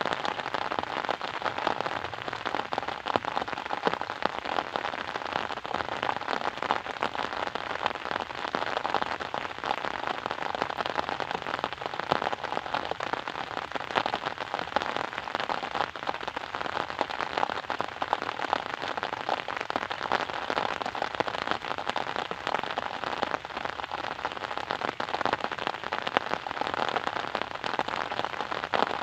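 Steady rain pattering on a surface, a dense, even spray of many fine drop ticks with no let-up.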